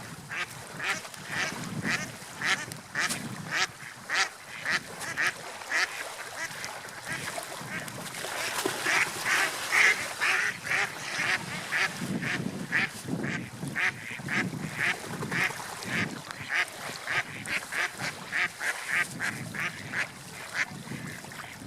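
Birds calling over and over in short, sharp notes, about two a second, over a low background rush.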